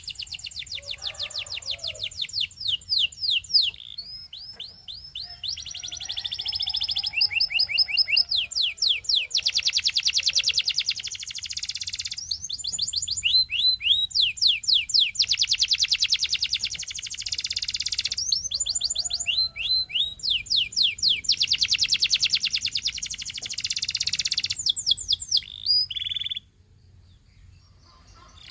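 Domestic canary singing a long, high-pitched song of fast trills and rolls, built from rapid repeated down-slurred notes with short breaks between phrases. The song stops near the end.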